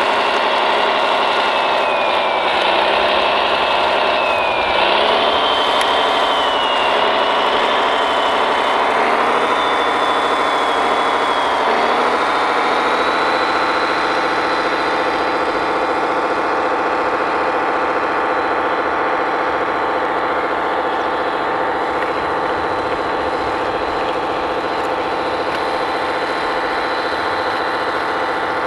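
Radio-controlled hydraulic construction machine running steadily, with an engine-like hum and a high whine that shifts pitch in several steps over the first dozen seconds, then holds at one pitch.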